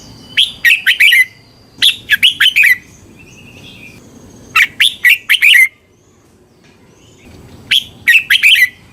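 Red-whiskered bulbul singing: four short, loud phrases of quick, liquid whistled notes, each about a second long, with pauses of a second or two between them.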